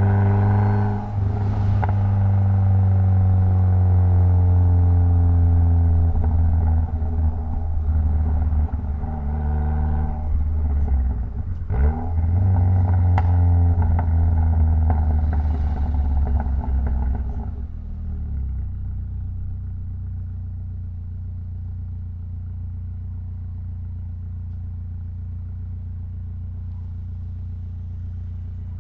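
Mitsubishi Lancer Evolution X's turbocharged 2.0-litre four-cylinder engine running loudly while driving, its revs falling in the first few seconds. About two-thirds through it drops to a quieter, steady idle.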